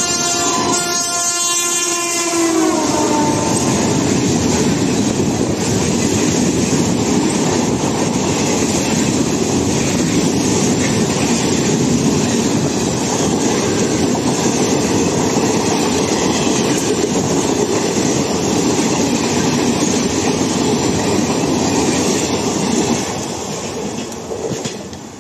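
A train horn sounds several tones at once, sliding down in pitch and ending about three seconds in. Under it and after it comes the steady rumble and wheel clatter of ICF passenger coaches running through at speed. The noise falls away near the end as the last coach passes.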